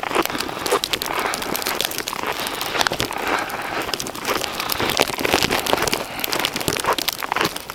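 Footsteps crunching through fresh snow, an irregular crackling series over a steady hiss.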